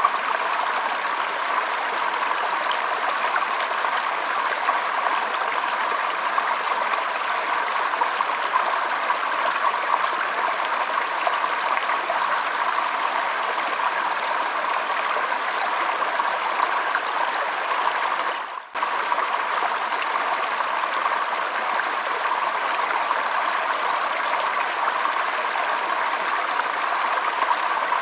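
Shallow stream trickling and flowing over stones, a steady rushing of water. It briefly drops out about two-thirds of the way through, then carries on unchanged.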